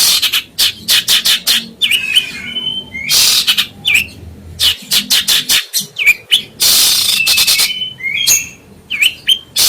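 A songbird singing loudly in a fast, busy stream: harsh, scratchy chattering notes alternating with short whistles that dip and rise again, and a couple of longer rasps.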